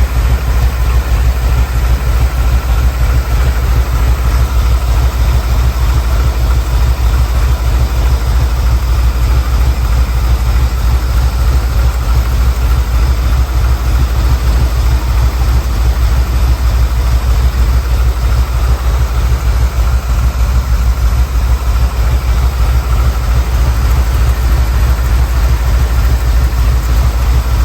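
1979 Ford Bronco's 351M V8 idling roughly and steadily, freshly running after a clogged carburettor was cleaned out; the idle still needs tuning.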